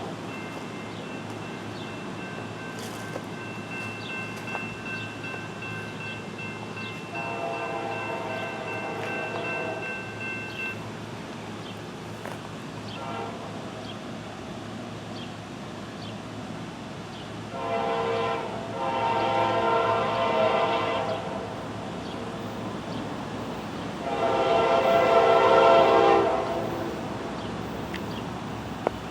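Diesel freight locomotive's air horn blowing a series of blasts: a fainter long one, then a short blast and two louder long ones, over the steady rumble of the train.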